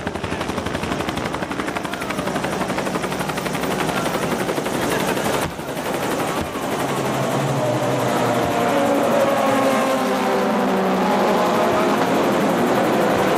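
A loud engine or rotor noise with a fast, steady pulsing; from about seven seconds in it grows louder, with tones that gently rise and fall.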